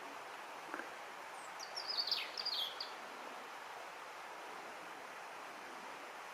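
European robin singing one short phrase of quick, high, varied notes about a second and a half in, over steady outdoor background hiss.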